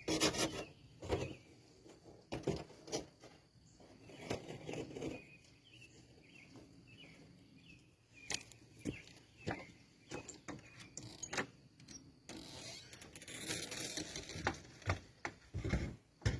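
Scattered knocks and clatters, like tools and wood being handled on a workbench, with a denser stretch of noise lasting about two seconds near the end. No machine is running.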